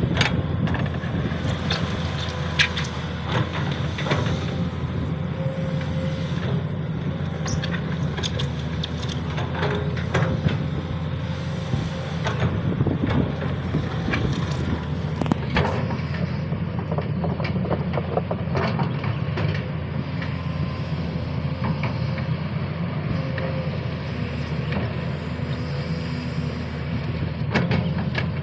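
Sany SY215C hydraulic excavator's diesel engine running steadily under work, with metallic clanks now and then from the machine.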